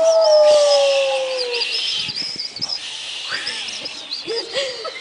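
Bird calls: high chirping runs throughout. In the first second and a half a long, slowly falling hoot sounds, and near the end come several short cooing notes.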